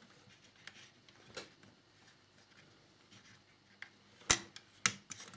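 Light clicks and taps of small plastic model parts and tools being handled, with two sharp clacks about half a second apart near the end.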